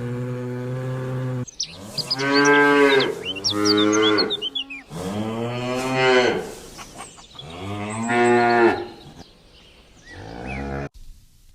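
A large animal's long, low lowing calls: one held call at the start, then four drawn-out calls in a row, with small high chirps over the first few.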